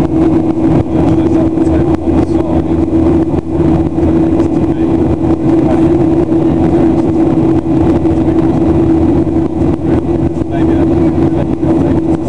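Cabin noise of a Boeing 737-800 in flight: its CFM56 jet engines and the airflow make a loud, steady drone with a constant hum.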